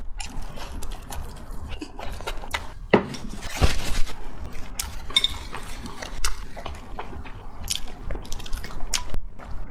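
Close-miked wet eating sounds: chewing and lip-smacking, heard as many short, wet clicks, with a louder cluster about three to four seconds in.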